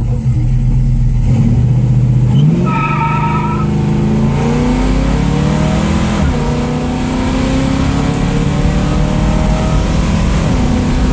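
1968 Dodge Dart's 340 V8 accelerating, heard from inside the cabin: the engine note climbs, drops with a gear change about six seconds in, then climbs again. A brief high squeal about three seconds in.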